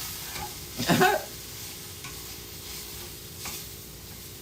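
Ramen noodles frying in an oiled pan, a steady sizzle, with one brief louder sound about a second in.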